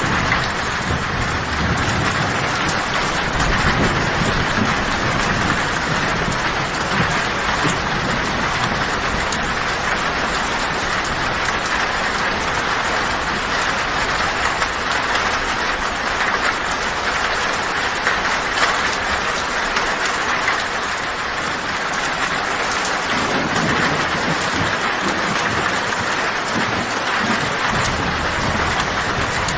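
Heavy rain drumming steadily on a tin (metal sheet) roof, with low thunder rumbling in the first few seconds and again near the end.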